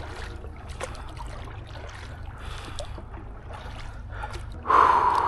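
Canoe paddle working the water: soft swishes and faint knocks over a low rumble, with a louder rush of noise lasting about a second near the end.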